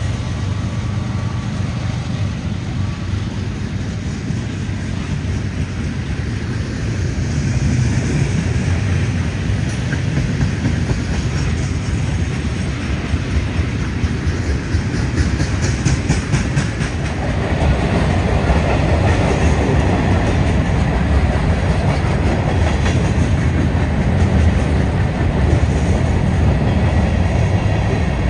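Freight train cars rolling past, their steel wheels running over the rails in a steady rumble. About seventeen seconds in it grows louder and harsher.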